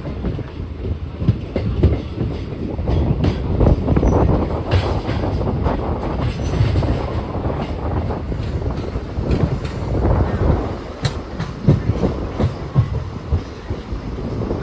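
Train running on the rails: a steady low rumble with irregular wheel clatter and sharp metallic clicks over rail joints.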